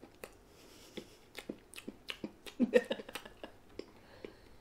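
Close-up chewing of chocolate chip cookie: scattered wet mouth clicks and smacks, with a short louder mouth noise a little past the middle.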